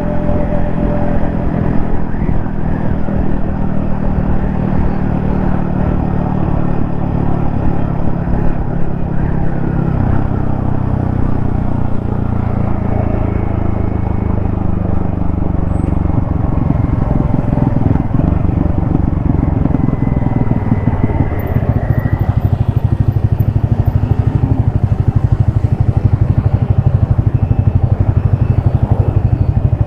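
Yamaha XSR155's single-cylinder engine running on the move, heard from a helmet-mounted camera. Its pitch drops as the bike slows about a third of the way in, then climbs again, and it runs louder over the last third.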